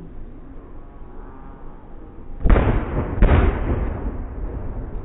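Two firework shells bursting in the sky about two and a half seconds in, less than a second apart, each a loud boom followed by a rolling, fading rumble.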